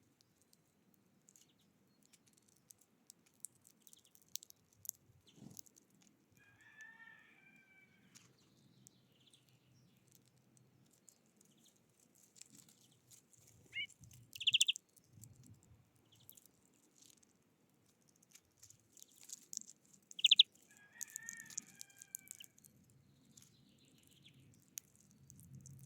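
Small wild birds calling: two short, sharp high calls about six seconds apart, and two softer chattering calls, over scattered faint ticks and taps.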